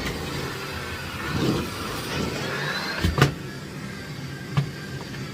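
Miele Blizzard CX1 bagless cylinder vacuum cleaner running, its high motor whine rising briefly in pitch. A sharp knock comes about three seconds in and a smaller one near the end.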